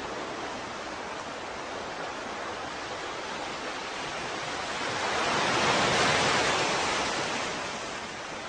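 Ocean surf: a steady wash of water with one wave swelling up about halfway through, breaking loudest around six seconds in, then receding.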